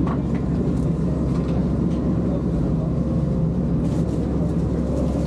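A tour boat's engine running steadily under way, a constant low drone heard on board.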